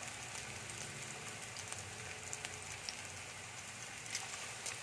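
Potato slices frying in oil in a nonstick pan: a steady sizzle with scattered small crackles as they brown.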